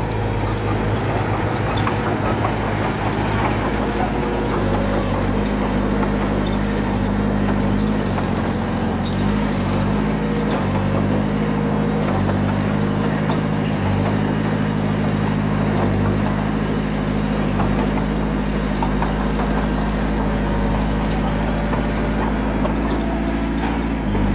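Small bulldozer's diesel engine running steadily under load, its pitch shifting a little about a third of the way in and again near the end, with scattered light metallic clicks.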